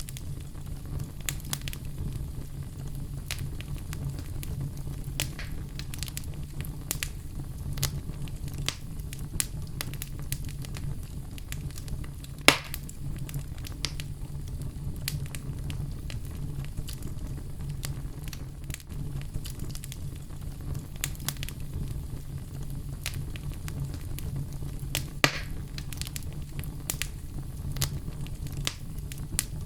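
Oak logs burning in a fireplace: a steady low rumble of flame with frequent small crackles and two louder pops, about twelve seconds in and again near twenty-five seconds.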